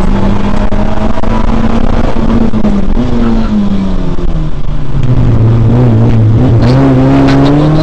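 Peugeot 106 rally car's four-cylinder engine heard from inside the cabin under way. The revs hold steady, drop as the driver comes off the throttle about three to five seconds in, then climb again near the end, with a few sharp clicks.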